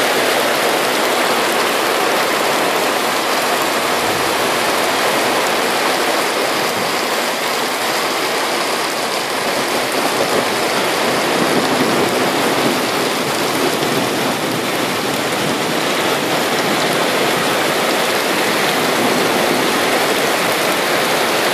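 Heavy thunderstorm rain falling steadily.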